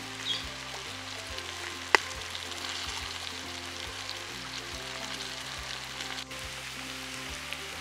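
Oil sizzling steadily as whole spiny gourds fry, with one sharp click about two seconds in.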